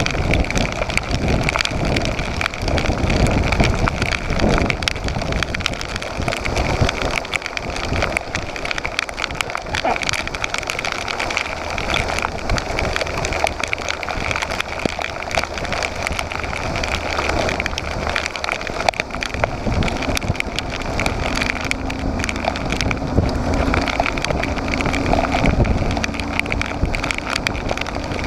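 Motorcycle engine running while riding, under a heavy rush of wind on the microphone, with rain.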